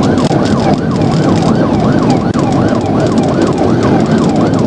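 Police car siren on fast yelp, its pitch sweeping up and down about four to five times a second, over heavy engine and road noise.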